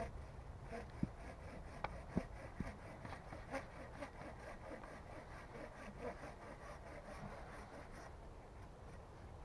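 Hand saw cutting through wood in steady, rhythmic strokes that stop about eight seconds in. A few sharp knocks come in the first few seconds.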